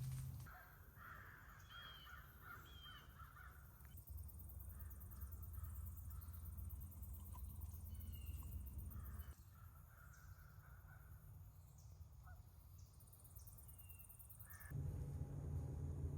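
Birds calling: a series of harsh caws in the first few seconds and another short run of caws about nine seconds in, with a few short, higher chirps between, over a low steady rumble.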